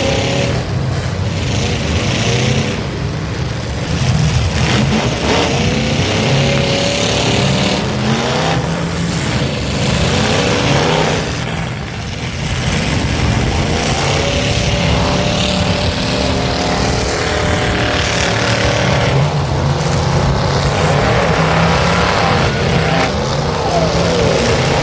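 Demolition derby cars' engines revving up and down over one another, loud and continuous.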